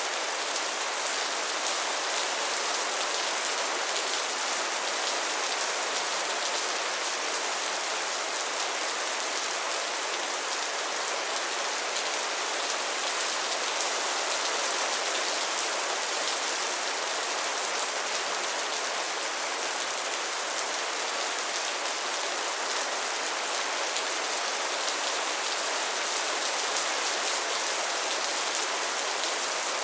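Steady rain falling, an even hiss of many drops spattering on a surface, with no thunder or change in strength.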